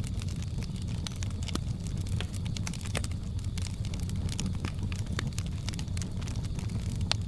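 Wood fire crackling: frequent irregular snaps and pops over a steady low rumble of the flames, with one sharper pop near the end.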